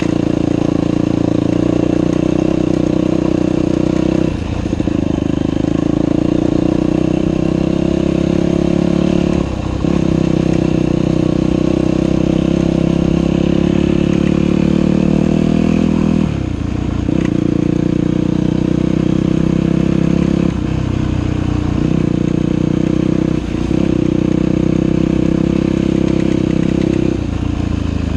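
Dirt bike engine running steadily as the bike is ridden, with several brief drops in the engine note every few seconds as the throttle is rolled off or a gear is changed.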